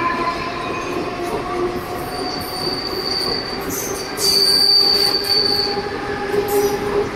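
Mumbai suburban electric local train running at a station, with steady tonal running noise. Its wheels squeal in two high-pitched stretches, about two seconds in and again, louder, about four seconds in.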